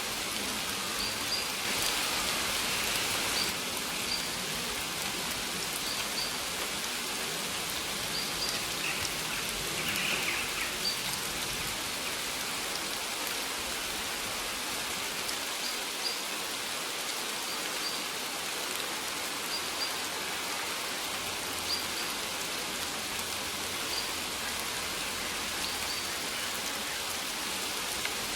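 Steady rain falling on surfaces, an even hiss of many drops. Short high bird chirps recur every second or two over the rain.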